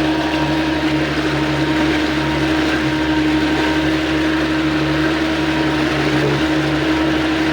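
Speedboat engine running steadily at speed: a constant drone with an even rushing noise of water and air over it.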